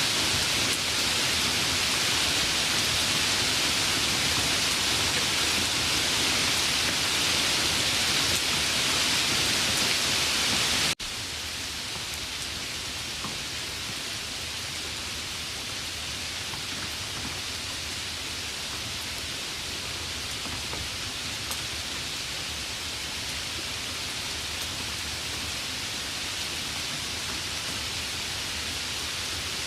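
Steady heavy rain, an even hiss. About eleven seconds in, it cuts out for an instant and resumes as a quieter, softer rain with faint scattered drop ticks.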